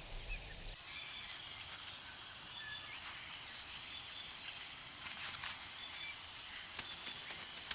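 Steady insect chorus, several high shrill tones held level and overlapping, starting a little under a second in, with a few faint ticks and rustles scattered through it.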